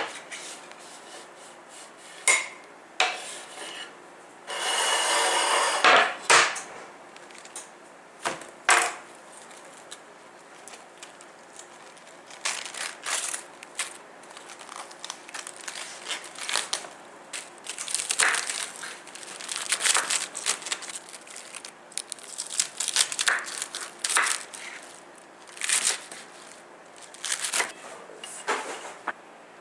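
Kitchen handling sounds: dishes and utensils clinking and knocking on wood at irregular intervals, with a brief rushing hiss about five seconds in.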